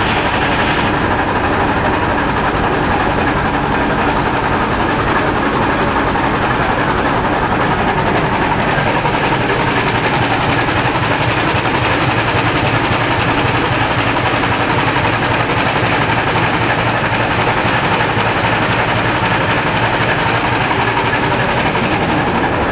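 75–90 hp Kahlenberg two-stroke oil engine running steadily at idle in a boat's engine room. A higher hiss above it stops about a second in.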